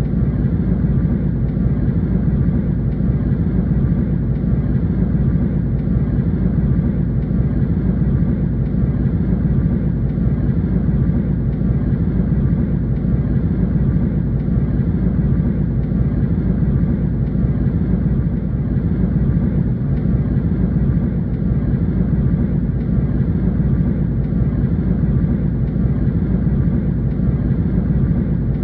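Airliner cabin noise in flight: a steady, deep rumble of engines and airflow, unchanging throughout.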